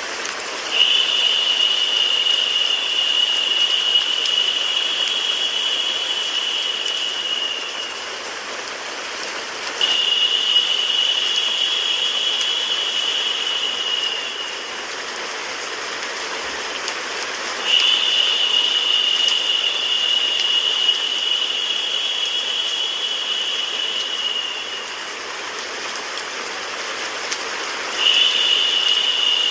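Steady rain-like white noise, with a higher, narrower hiss that swells in four times for several seconds each, each time cutting out fairly abruptly.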